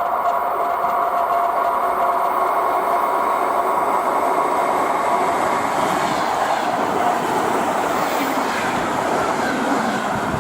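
ER2 electric multiple unit running past at speed, a loud steady rush of wheels on rail. A steady whine gives way to a wider rushing noise about six seconds in.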